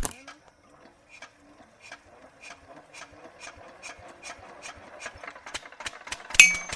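Homemade miniature engine mechanism starting up: a click, then a rhythm of ticks that speeds up steadily from about two a second to several a second. A single sharp metallic ping comes near the end.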